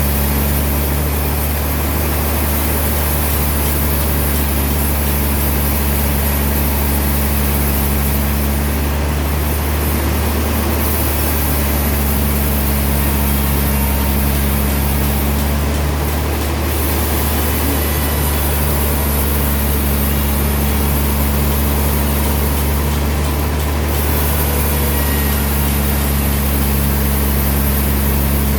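Sawmill machinery running steadily with a deep, even hum and no breaks or changes in load.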